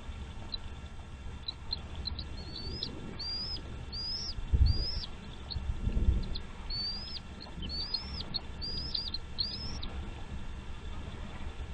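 A bird calling in a run of short, high chirps, each rising then falling in pitch, about one or two a second. Two low thumps about four and six seconds in are the loudest sounds.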